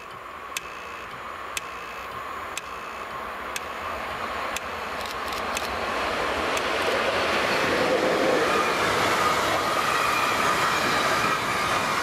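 Freight train hauled by an EU07 electric locomotive approaching and passing with a long rake of tank wagons: the rumble of wheels on rail grows steadily louder and peaks about seven seconds in, joined by a faint high whine from the wagons' wheels. A faint tick repeats about once a second over the first few seconds.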